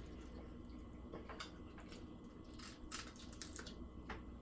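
Faint chewing and crunching of hard taco shells: a few soft, short crunches over a low room hum.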